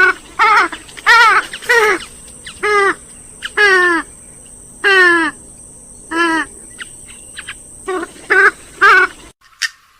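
Recorded calls of swamphens and moorhens: a quick series of about a dozen loud, harsh squawks, each sliding down in pitch, that cuts off abruptly about nine seconds in.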